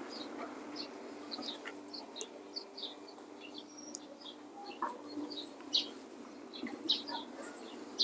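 Small birds chirping: many short, high chirps scattered irregularly, over a faint steady low hum.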